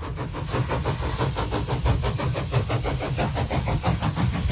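Steam locomotive sound effect: quick, steady chuffing, as of an engine pulling away at speed.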